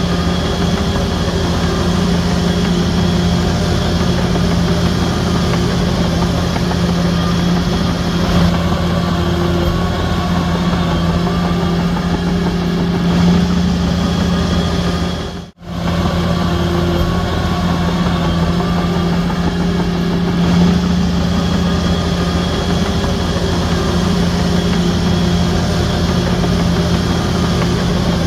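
Shantui DH17C3 bulldozer's diesel engine running steadily with a constant low hum. The sound cuts out for a split second about halfway through.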